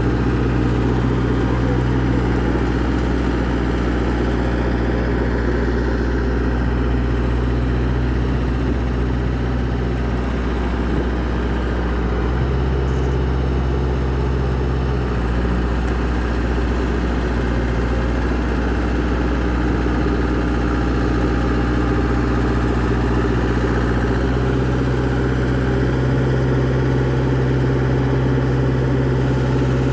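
Ford wheeled excavator's engine running steadily near idle, its speed shifting slightly a few times.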